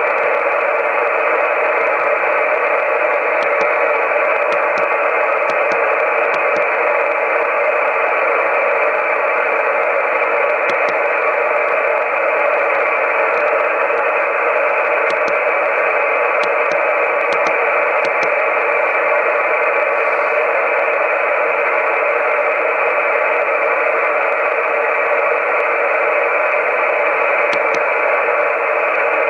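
Steady hiss from an amateur radio receiver's speaker, limited to the narrow voice band of the receiver's filter, with a few faint ticks scattered through it.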